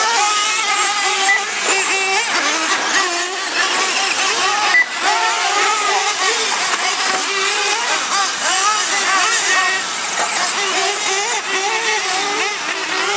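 Several radio-controlled monster trucks and truggies racing, their small engines whining and revving up and down over one another, with a short sharp knock just under five seconds in.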